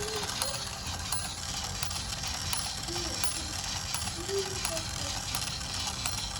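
Battery-powered toy domino train running, its plastic gear mechanism whirring and ratcheting with regular clicks as it sets down dominoes.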